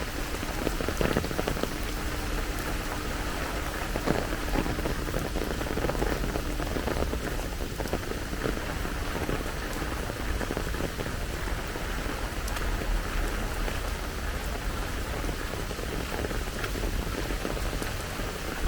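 Steady rain falling, a continuous hiss dotted with many small drop ticks, over a low rumble.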